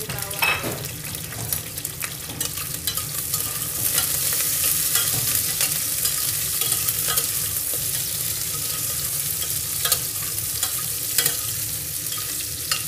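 Shallots, spring onion, ginger and garlic sizzling in oil in a stainless steel pot, stirred with a metal ladle that clicks and scrapes against the pot. The sizzle grows a little louder a few seconds in.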